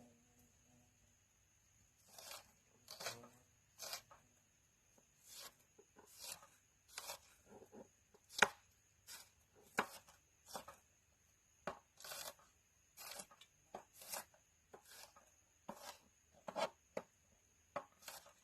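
Dull kitchen knife chopping food in a run of irregular strokes, about one to two a second, beginning about two seconds in.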